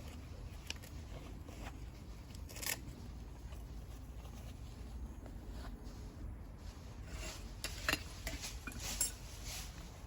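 Coffee-making gear being handled: scattered light clicks and clinks, a few sharper ones near the end, over a low steady rumble.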